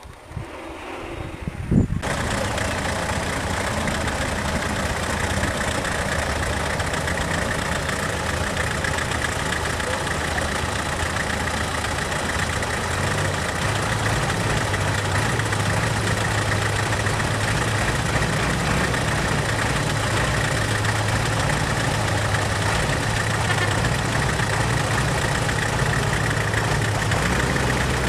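A vehicle engine running steadily at idle with a low, even hum. It builds up over the first couple of seconds, then cuts in fully with a sudden jump and holds steady.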